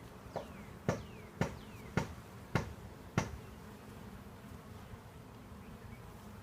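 Honeybees humming steadily around an open hive, with six sharp knocks about half a second apart in the first three seconds.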